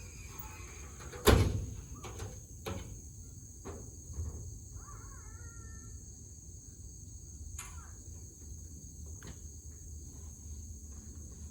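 Steady high trilling of insects, likely crickets, with one sharp knock about a second in and a few lighter clicks. A short chirp comes around five seconds in.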